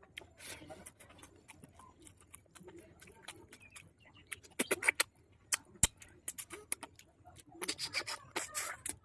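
Eating sounds: scattered wet clicks and smacks of chewing, with two denser bursts of crunching and smacking about halfway through and again near the end.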